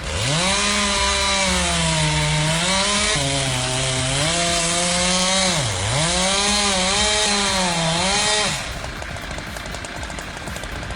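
A chainsaw engine cutting through wood at high revs, its pitch sagging under load and dipping sharply about six seconds in before picking back up. The saw drops away about eight and a half seconds in, leaving a lower steady noise.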